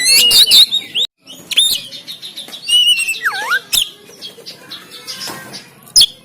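Oriental magpie-robin (kacer) singing a loud, varied song of quick whistles, rising and falling sweeps and sharp clipped notes, with a brief break about a second in.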